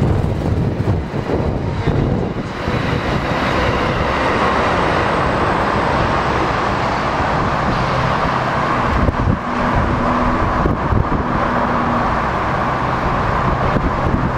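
Metro-North electric multiple-unit commuter trains running on the line: a steady rush of wheels on rails, with a low steady hum joining about eight seconds in as another train approaches.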